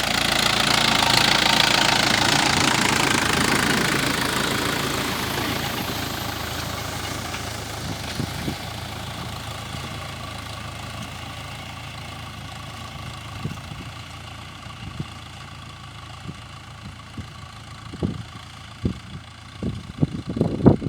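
Mahindra Yuvo 415 tractor's diesel engine running steadily, loudest at first and gradually growing quieter. Scattered sharp knocks and clatters come more often near the end.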